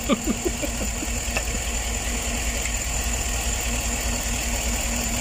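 Chevrolet Tahoe V8 idling steadily. The idle is rough because cylinder number 4 is misfiring.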